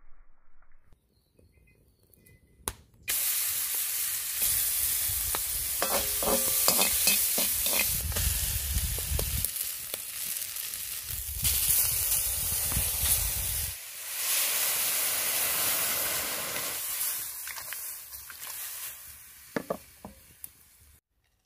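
Food frying in a pan over a campfire: sizzling starts suddenly about three seconds in and fades away near the end, with some knocks of the pan being stirred in the middle.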